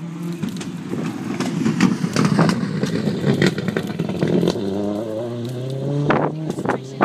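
Rally car engine running hard, peppered with sharp cracks and clatter. About two-thirds of the way through the engine note drops, then slowly climbs again, with two loud cracks near the end.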